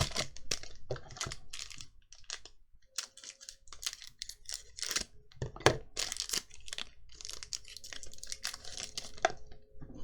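Magic: The Gathering trading cards and booster-pack wrapping being handled: a run of rustles, crinkles and sharp card flicks, with a quieter stretch about two to three seconds in.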